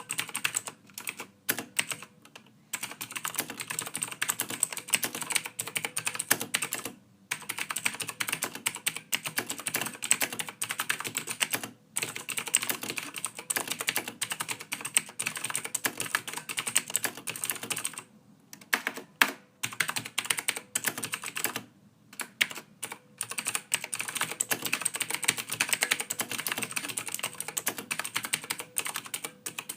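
Typing on a computer keyboard: a quick, uneven run of key clicks, pausing briefly a few times.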